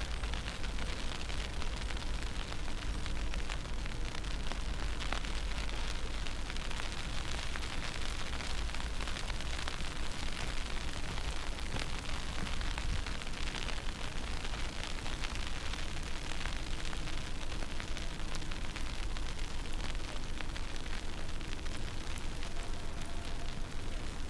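Steady wind buffeting the microphone during a snowstorm: a constant low rumble under an even hiss, with a few faint ticks.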